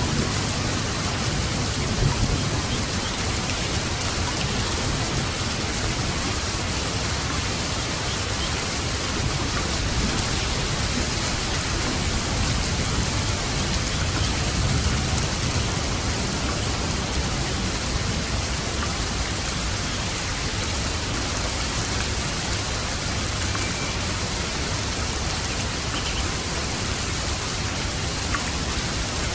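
Steady rain falling as an even, unbroken hiss, with a low rumble underneath.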